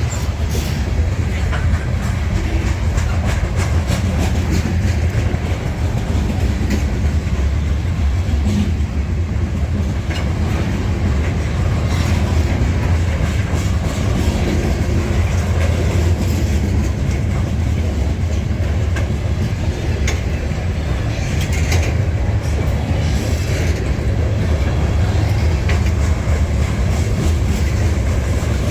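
Freight train cars rolling past at speed, a steady rumble with the repeated clickety-clack of wheels over rail joints.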